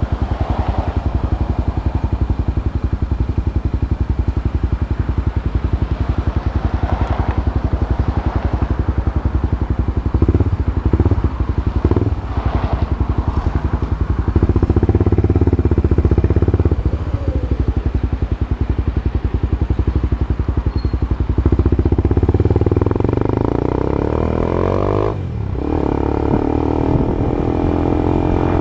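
Honda CB Twister's single-cylinder engine idling through a new aftermarket exhaust, with a few short throttle blips around the middle. Near the end the revs are raised and held, the pitch climbing.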